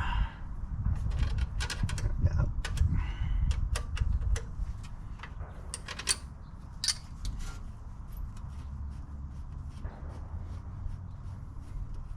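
Scattered clicks and clinks of hand tools and metal carburetor parts being worked, busiest in the first half, over a steady low rumble.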